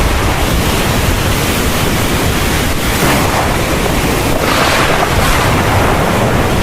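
Heavy rain falling steadily, swelling briefly a little past the middle.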